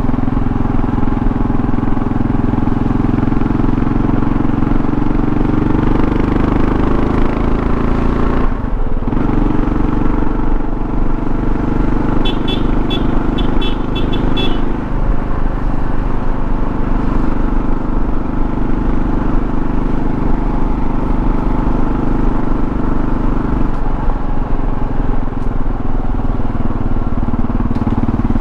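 Kawasaki KLR650's single-cylinder engine running under way, with road and wind noise. The engine note climbs, cuts off sharply about eight and a half seconds in, then picks up again and shifts pitch twice more.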